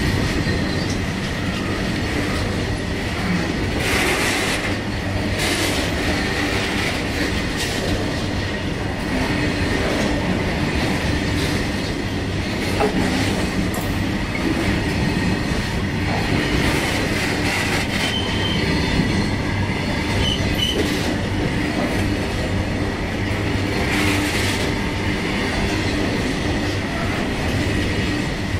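Train rolling steadily past: continuous rumble with wheels clicking over rail joints, under a thin, steady wheel squeal.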